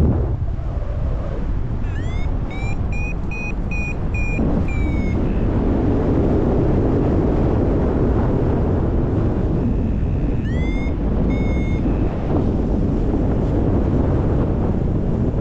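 Wind rushing over the microphone in flight. Over it a paragliding variometer beeps in two runs of short tones, about two seconds in and again about ten seconds in. The pitch rises at the start of each run, the sign of the glider climbing in lift.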